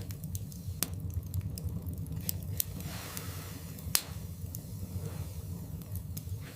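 Wood fire burning in a fireplace: a steady low rumble of flames with irregular crackles and pops from the burning logs, the sharpest pop about four seconds in.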